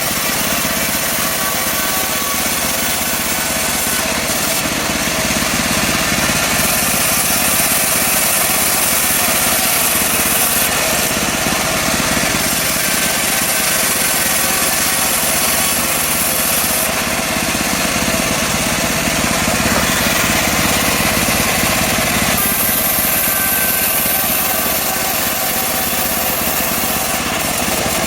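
Engine-driven portable bandsaw mill sawing a mahogany log, the engine running steadily under load. The high hiss of the cut grows brighter and fades back several times.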